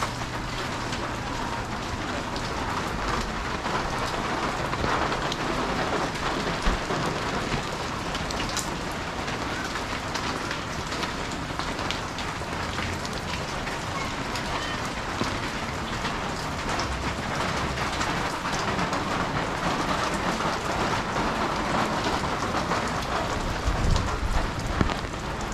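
Steady rain falling, a dense even hiss with many scattered drop taps and a few louder knocks near the end.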